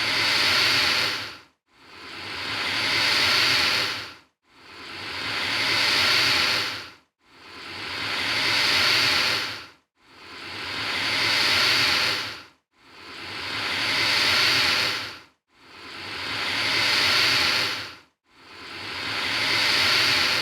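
An alligator hissing: a long breathy hiss that swells and then cuts off sharply, repeated about every two and a half to three seconds at an even pace, seven or eight times.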